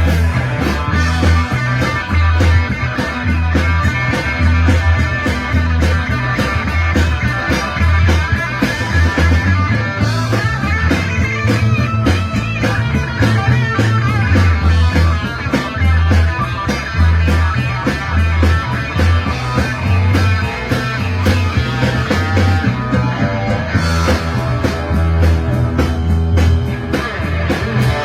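Live rock band playing an instrumental break: guitar over a pulsing bass line and drums, with no singing.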